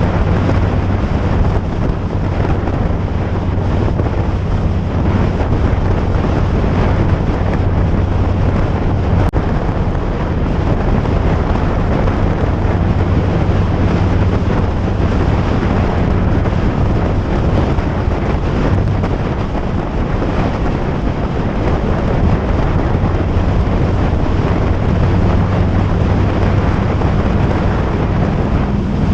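Wind buffeting the microphone on a moving ride, over a steady low hum.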